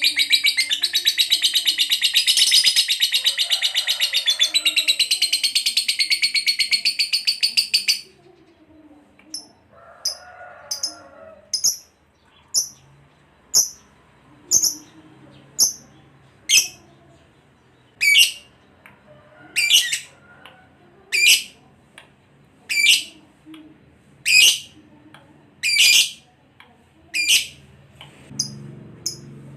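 Lovebird calling: a long, rapid, high chattering trill (ngekek) that breaks off about eight seconds in, followed by short, sharp high chirps repeated about every second and a half.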